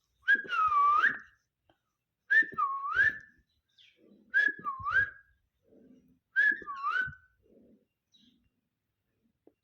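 Alexandrine parakeet whistling four times, about two seconds apart, each whistle dipping in pitch and swooping back up, with faint rustling between.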